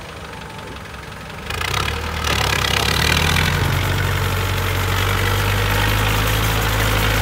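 ISEKI tractor's diesel engine running, quieter at first, then growing markedly louder about a second and a half in and running steadily after that.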